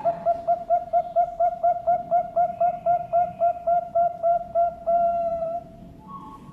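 Zebra dove (Bangkok perkutut) singing: a fast, even string of short cooing notes, about four or five a second, ending a little after five seconds in one longer drawn-out coo.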